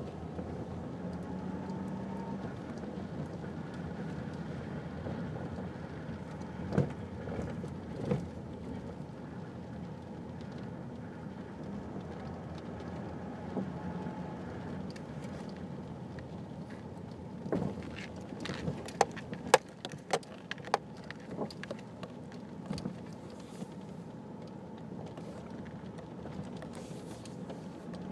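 Mazda Millenia (Xedos 9) suspension knocking over bumps on the move, above steady road and engine noise: two single knocks, then a cluster of sharp knocks about two-thirds of the way through. The owner hears the knock on the right side whichever wheel hits the bump, as if something is loose.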